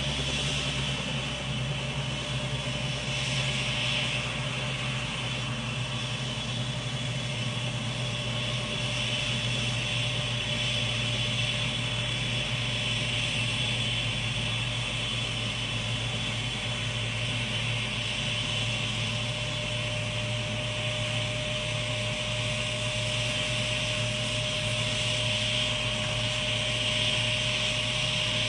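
Helicopter in flight heard from inside the cabin: a steady engine and rotor drone with a constant high whine.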